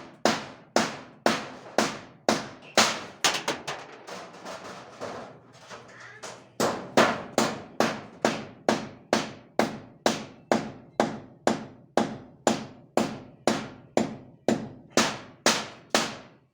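Repeated hammer strikes, about two to three a second, each with a short ring. They go lighter for a couple of seconds about four seconds in, then resume at full strength.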